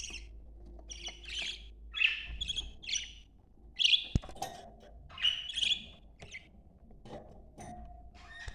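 Budgerigars chattering: short, scratchy chirps and squawks in quick bursts, one or two a second. A single sharp click about four seconds in.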